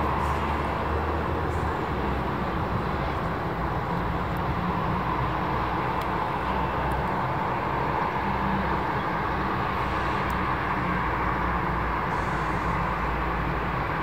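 Steady jet engine noise from a Boeing 737-800 airliner: a constant rumble and hiss that holds level throughout.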